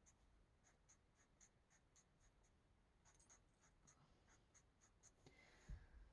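Faint, rapid back-and-forth strokes of a coloring tool on a coloring-book page, about three to four strokes a second, with a soft thump near the end.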